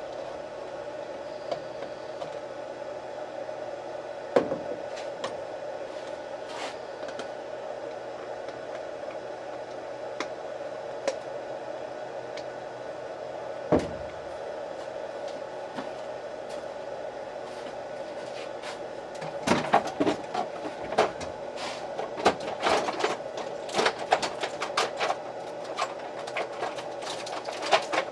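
A steady background hum with a few scattered clicks and knocks, turning into a quick run of clicks and taps about two-thirds of the way in.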